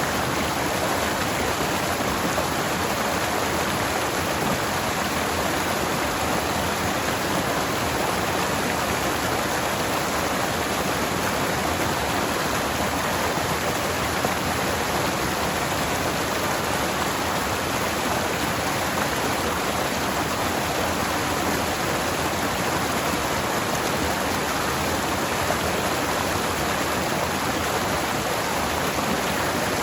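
Forest stream flowing steadily: an even, continuous rush of running water.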